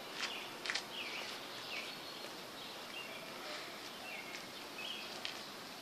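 Faint outdoor ambience with small birds giving short chirps roughly once a second, and a couple of soft clicks in the first second.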